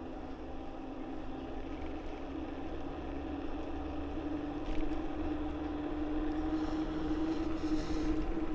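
Riding noise on a moving bicycle: wind rumble on the microphone under a steady hum that rises slightly in pitch and grows louder, with one short click about five seconds in.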